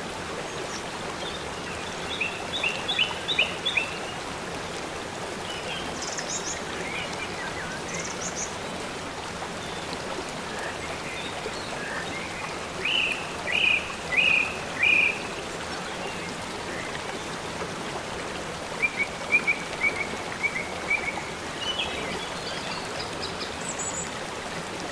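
Steady rush of water from a small waterfall, with bird chirps over it in short quick runs of three to five notes, a few times.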